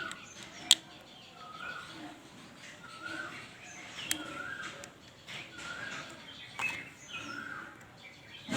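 A bird chirping in the background, short calls about once a second. A few sharp clicks are heard over it, the loudest about a second in.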